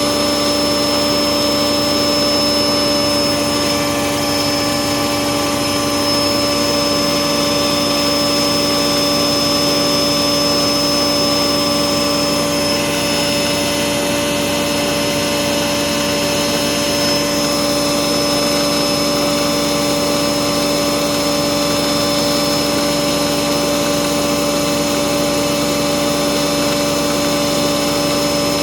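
Vintage Bauknecht WAS 1400 washing machine running with a steady, loud motor whine. This fits a high-speed spin.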